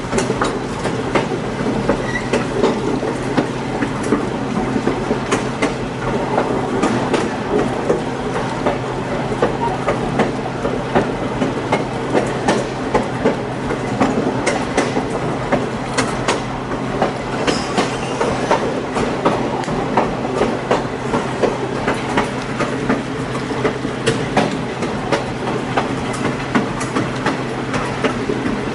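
Passenger train riding along the track, heard from aboard a coach: a steady rumble with frequent irregular clicks and clacks of the wheels over the rails.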